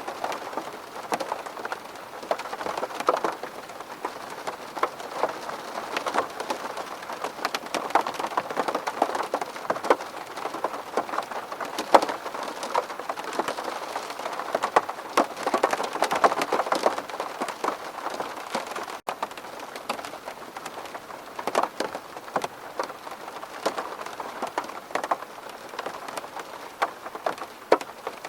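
Steady rain pattering on window glass, with many individual drops tapping sharply over the even hiss.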